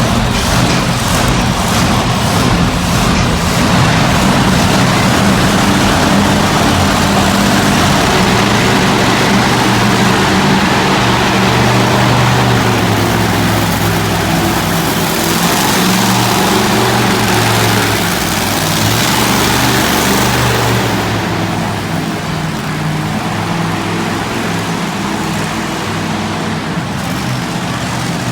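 Monster truck engine running and revving, its pitch rising and falling, easing off and getting quieter about twenty seconds in.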